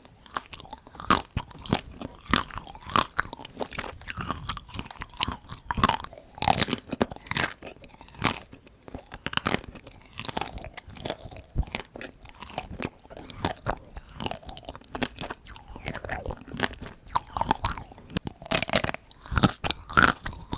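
Close-miked eating of chocolate ice cream: repeated bites and chewing with sharp, irregular crunches as the hard chocolate breaks.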